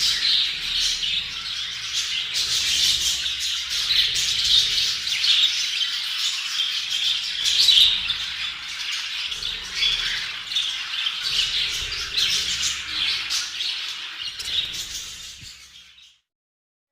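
A flock of budgerigars chattering and chirping together in a dense, continuous warble, fading out near the end.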